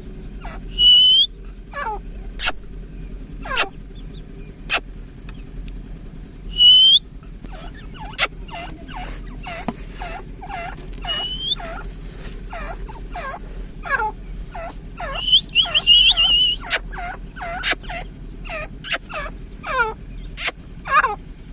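Grey francolin (teetar) calling: a long series of shrill notes, each sliding downward, running quickly at about two a second through the middle. Short rising whistles are mixed in, the loudest sounds, a few seconds apart, then a warbling whistle, with sharp clicks scattered throughout.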